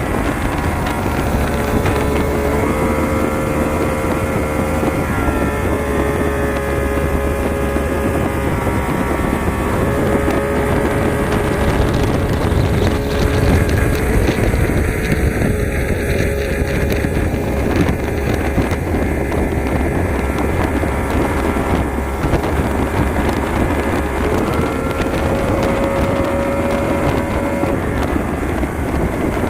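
Power boat engine running under way, with wind buffeting the microphone. The engine note holds steady, stepping up and down slightly a few times.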